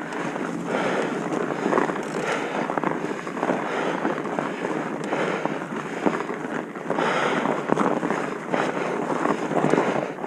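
Wind buffeting the microphone in uneven gusts, with scattered sharp clicks and rattles, as from a camera on a bike moving fast down a rough trail.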